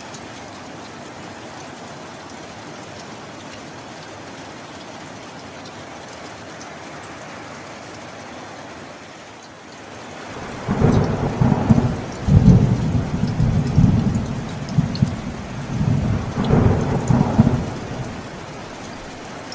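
Steady rain falling, then about halfway through a long rolling thunderclap rumbles for about seven seconds in several surges before fading back to the rain.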